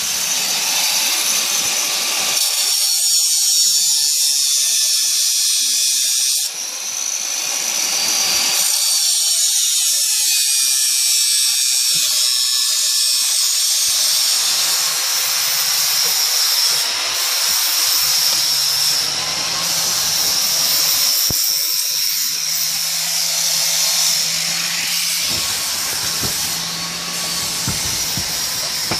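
Angle grinder running against metal: a steady high whine over hiss, with a brief dip about six seconds in.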